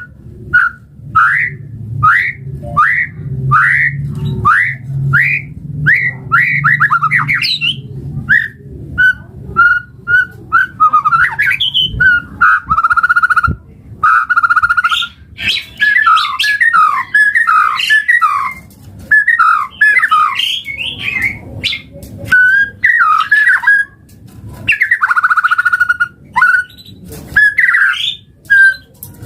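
White-rumped shama (murai batu) singing: a run of quick rising whistled notes, about two a second, then varied whistled phrases and trills. A low hum runs under the first part.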